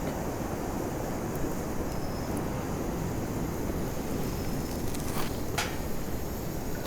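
Wood bonfire burning with a steady rushing noise, and a couple of sharp crackles about five seconds in.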